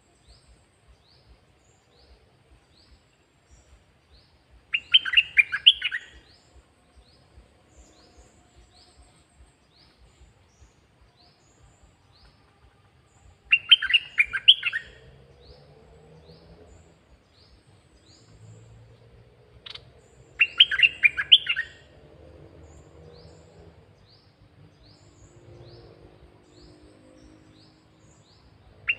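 Caged red-whiskered bulbul singing its short 'dok taeng' song phrase, about a second long, four times at intervals of roughly seven to eight seconds. Faint quick high chirps repeat about twice a second between the phrases.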